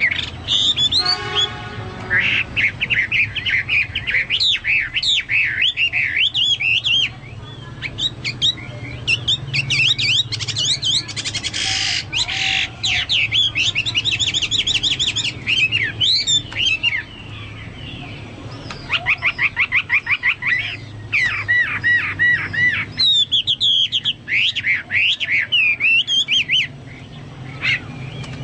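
Chinese hwamei singing a long, varied song of loud, fast whistled phrases and rapid trills, with a few short pauses.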